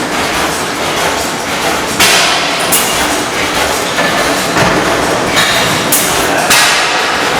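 Antique stationary gas engine running, with sharp exhaust bangs at uneven intervals, often two close together, over steady mechanical clatter.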